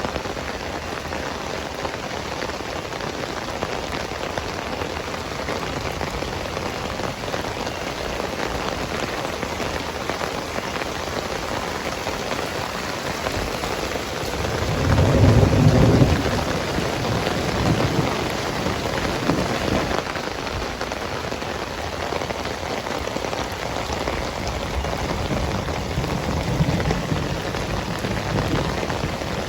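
Heavy rain falling steadily, with a low rumble swelling up about halfway through and fainter rumbles near the end.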